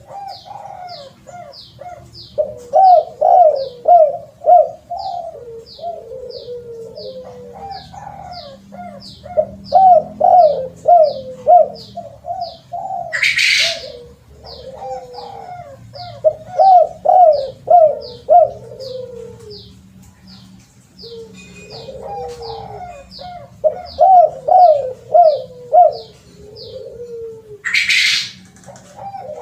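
Spotted doves cooing in repeated phrases of several coos. Behind them a small bird's high chirp repeats about two or three times a second. Two short bursts of hiss come about halfway through and near the end.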